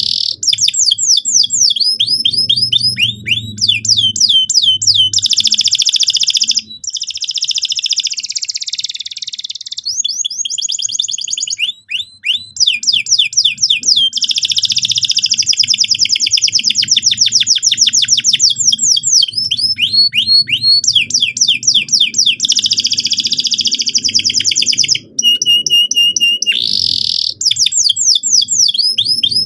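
Domestic canary singing without pause in long rapid trills ('rolls') of quickly repeated falling notes, broken by a few harsher buzzing passages. A faint low hum runs underneath.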